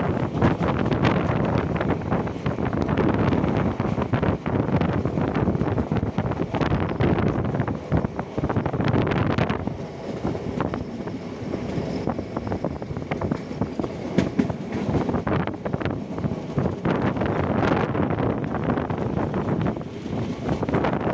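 Ananthapuri Express coach running along the track: a steady rumble with many sharp clicks from the wheels over the rails, and wind on the microphone. The hiss eases a little about halfway through.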